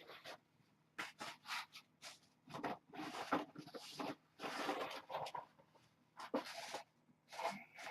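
Repeated scratchy scraping and rustling in short, irregular strokes, with brief pauses between them.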